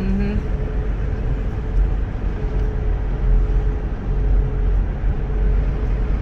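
Road noise heard from inside a moving car: a steady low rumble of tyres and engine with a faint steady hum.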